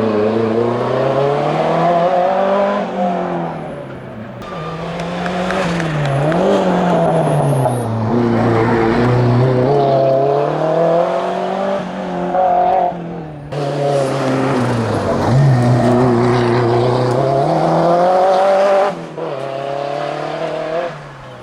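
Renault 5 GT Turbo's turbocharged four-cylinder engine revving hard under racing load, its pitch climbing and dropping again and again as it is driven up through the gears and lifts off between corners.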